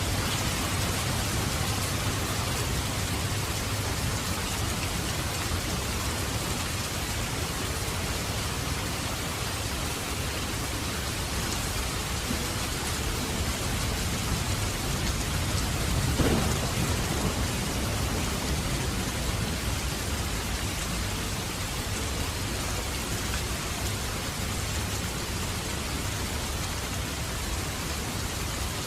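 Heavy rain falling steadily, a dense even hiss with a low rumble underneath. One brief louder sound stands out a little past halfway.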